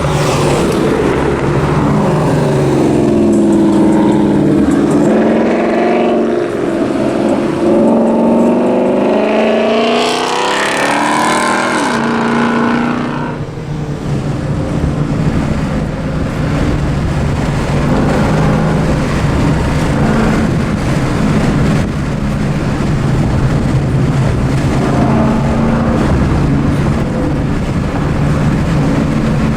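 A car engine revving up and down through its exhaust, climbing highest about eleven seconds in before dropping back, then idling steadily.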